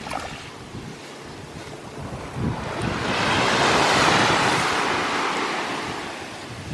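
Sea waves washing onto a beach: one wave rushes in, swelling to its loudest about four seconds in and then fading away, with wind rumbling on the microphone.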